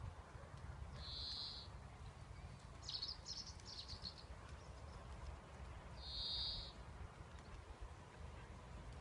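Birds calling in three short high phrases over a faint, steady low rumble.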